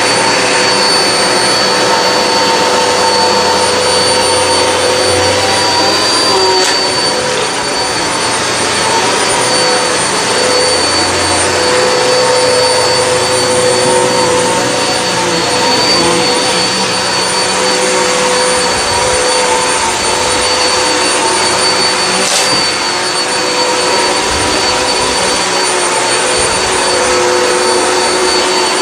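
Hoover WindTunnel High Capacity upright vacuum running steadily on carpet: a loud, even rush of airflow with a constant motor whine. There are two brief ticks, one about a quarter of the way in and one about three quarters in.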